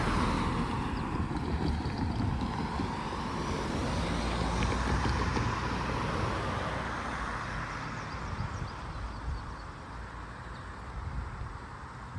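A road vehicle passing close by with a low rumble, loudest at the start and again a few seconds in, then fading away.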